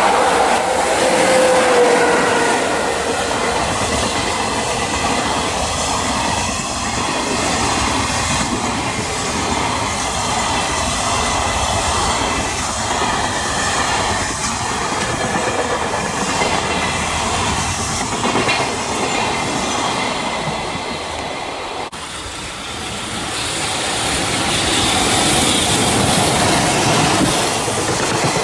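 A train passing close by: a steady rumble with wheels clattering over rail joints and a thin high whine. About three quarters of the way through the sound dips briefly and then swells again as another pass-by begins.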